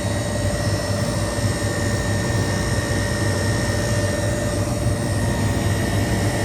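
Refrigeration condensing unit running: a steady mechanical drone with a constant low hum and a thin high whine, from the compressor and condenser fan.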